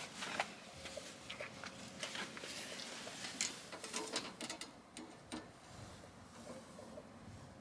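Irregular light clicks and taps, thicker in the first few seconds and thinning out toward the end.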